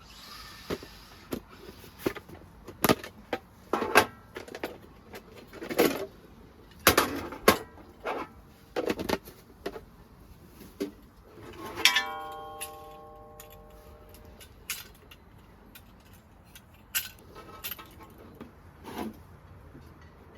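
Camping gear being handled: a string of clicks and knocks. About twelve seconds in, a metal item rings out and fades over a couple of seconds.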